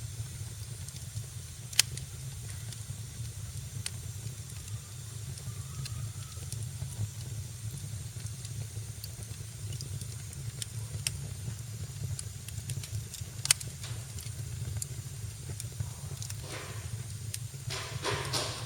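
Wood fire crackling in a fireplace: a steady low rumble of flames with scattered sharp crackles, two loud pops about two seconds in and about two-thirds of the way through, and a short hissing flare near the end.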